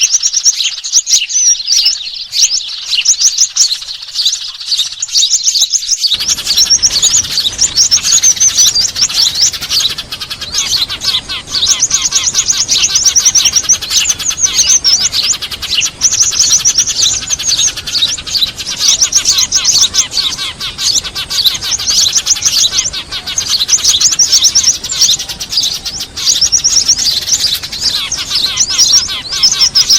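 Busy, dense chirping and trilling of a flock of small birds, with sparrow calls among them. This is a bird-trapping lure recording (suara pikat). A steady background hiss cuts in suddenly about six seconds in.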